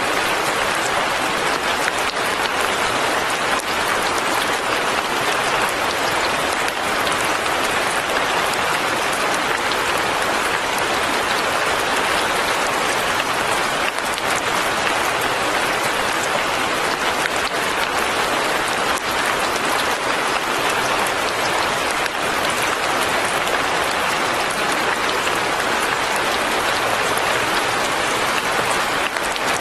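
Steady light rain falling, an even hiss with faint scattered drops.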